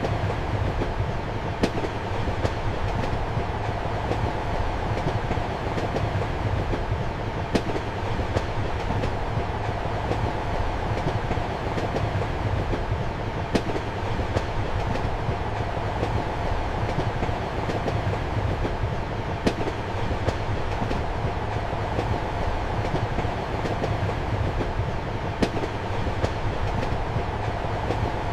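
Moving passenger train heard from inside a compartment: a steady rumble of wheels on rails, with a sharp clack from the wheels every few seconds.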